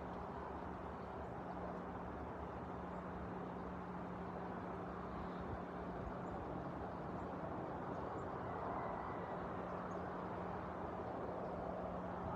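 Steady outdoor background noise, like distant traffic, with a low steady hum under it and a few faint, short high chips.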